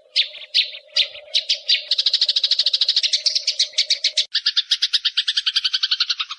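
Eurasian tree sparrows in an aggressive fighting chatter: separate high chirps that quickly speed up into a fast, continuous chattering. A faint steady hum runs under the first four seconds.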